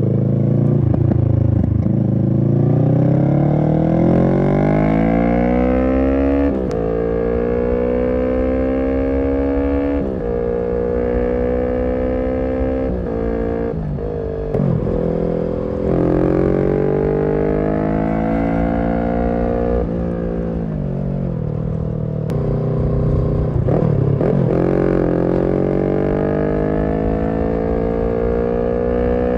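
Kawasaki Z650's parallel-twin engine through a Roadsitalia aftermarket exhaust, pulling through the gears: the pitch climbs, then drops sharply at each shift, about half a dozen times. Near the end the revs fall away and then climb again.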